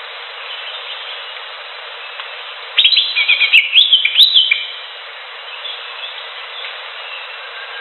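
Green leafbird (cucak hijau) singing: a loud burst of quick rising and falling whistled notes about three seconds in, lasting under two seconds, with fainter notes elsewhere over a steady hiss.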